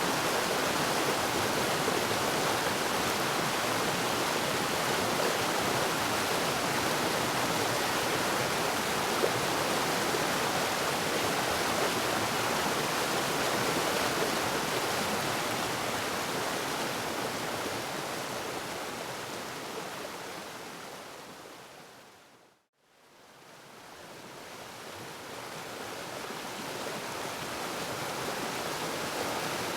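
Steady rushing of a waterfall. About three-quarters of the way through it fades out to a brief silence, then fades back in.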